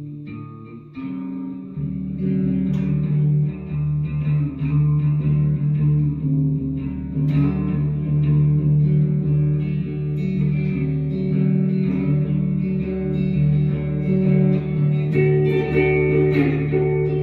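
Guitar music: plucked guitar notes over a steady low line, fuller from about two seconds in.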